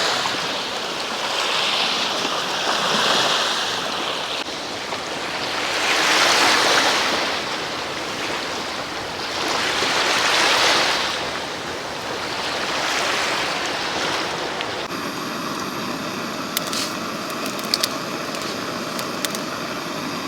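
Sea waves washing in on the shore, each surge swelling and fading every few seconds. About fifteen seconds in, the sound changes abruptly to a steadier hiss with a few sharp crackles.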